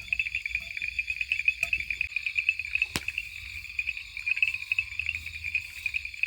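Dense chorus of crickets: a steady, rapidly pulsing high trill, with one sharp click about three seconds in.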